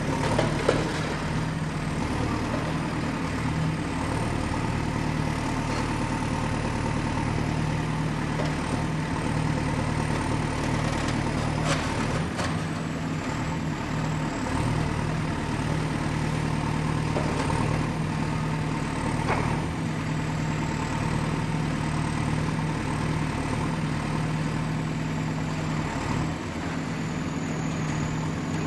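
Excavator's diesel engine running steadily with a low hum, with a few short knocks: one near the start, one about twelve seconds in, and one about nineteen seconds in.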